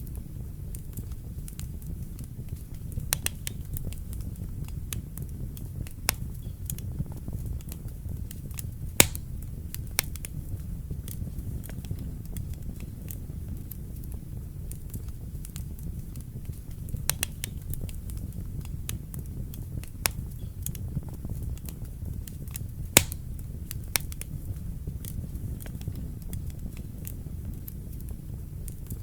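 Wood fire burning in a fireplace: a steady low rumble of flames with irregular sharp crackles and pops, the loudest pops about 9 and 23 seconds in.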